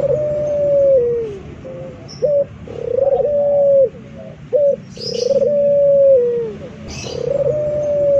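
Male puter (Barbary dove) cooing: a long level coo that falls away at its end, followed by a short rising note, the phrase repeated about every two and a half seconds.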